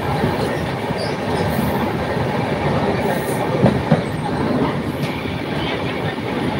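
Steady rumble and rattle of a moving passenger train, heard from inside the coach, with two brief sharp knocks close together a little past halfway through.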